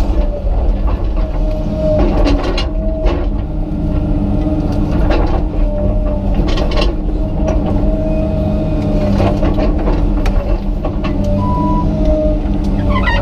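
Komatsu PC200 excavator's diesel engine running steadily under load while the machine pulls a tree's root ball out of the ground, with a wavering whine over the engine and scattered cracks and knocks.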